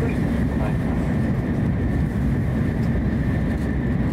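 Cabin running noise of a Hokuriku Shinkansen E7/W7-series train at speed: a steady low rumble with a thin steady high tone above it.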